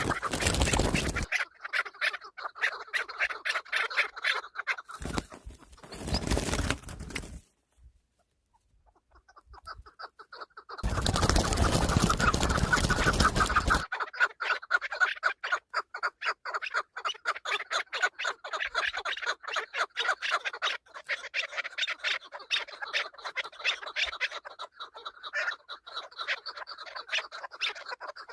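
Chukar partridge calling: long runs of rapid, evenly repeated clucking notes. Three loud bursts of noise break in, the longest lasting about three seconds just before the twelve-second mark.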